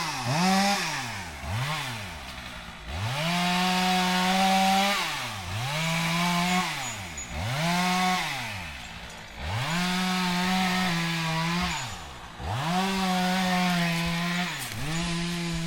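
Two-stroke chainsaw with a few quick throttle blips, then held at full throttle in runs of one to three seconds and dropped back to idle between them, about five times, as it saws through wood.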